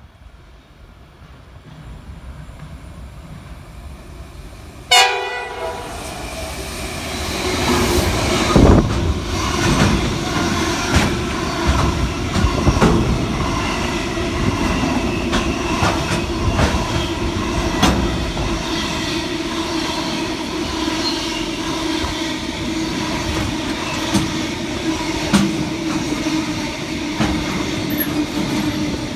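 A train approaching and then passing close by. Its horn sounds about five seconds in, and for the rest of the time the passing cars' wheels click irregularly over the rail joints under a steady whine.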